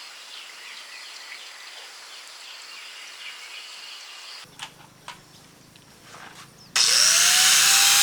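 Insects chirping over a steady outdoor hum, then after a cut a few sharp clicks. Near the end a power tool starts with a rising whine and runs loudly.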